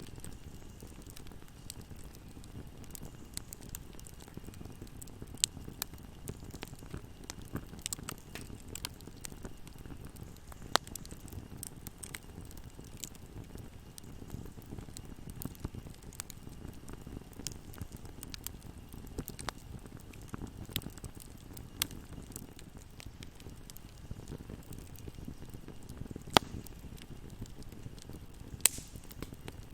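Wood fire burning in a fireplace: a steady low rush of flame under frequent sharp crackles and pops. A few pops stand out louder, the loudest about two-thirds of the way through and near the end.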